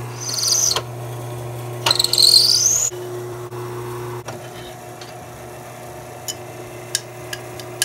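A drill press runs with a countersink bit cutting into a metal plate. The cutter squeals twice, each a brief high-pitched squeal rising in pitch, within the first three seconds. After that the motor hums on steadily, with a few light scrapes and clicks.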